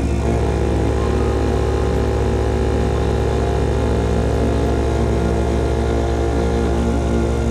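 CFMOTO Papio SS single-cylinder engine running through a KO Lightning slip-on exhaust, holding a steady engine speed while riding.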